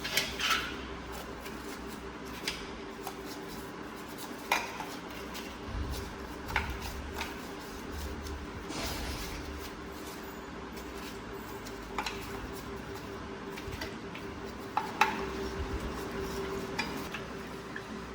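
Scattered clinks and knocks of hard objects being handled, a dozen or so spread irregularly, over a steady faint hum.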